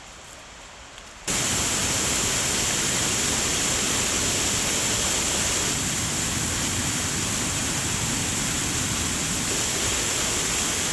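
Small river waterfall: a loud, steady rush of falling water that cuts in sharply about a second in.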